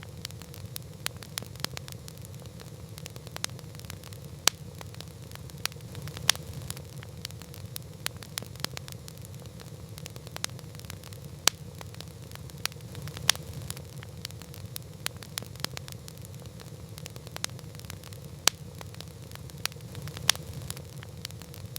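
Wood campfire crackling: irregular sharp pops and snaps, several a second with an occasional louder one, over a steady low rumble.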